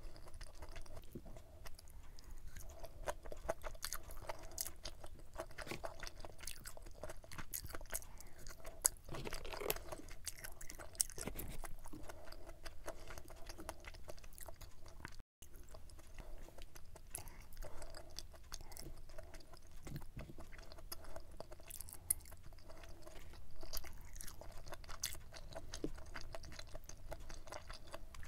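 Close-miked chewing of spicy stir-fried pork intestines, with many small wet mouth clicks and occasional light crunches.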